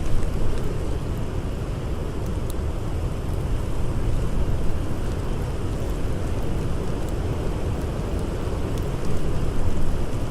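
Blizzard wind, a steady deep noise that swells slightly near the end, with occasional faint crackles of a campfire.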